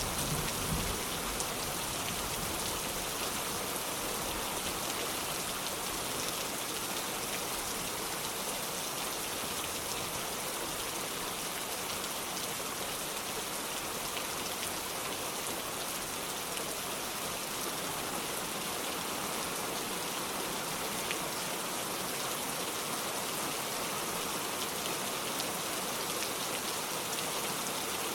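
Heavy rain falling steadily on a metal roof, a dense, unbroken spatter of drops.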